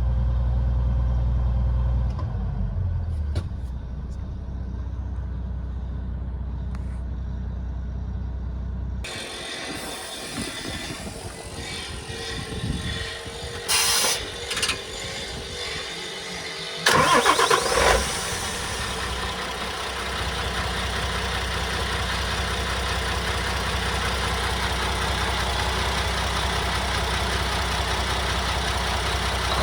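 Isuzu Forward truck's diesel engine being started, with short loud surges about halfway through, then running steadily.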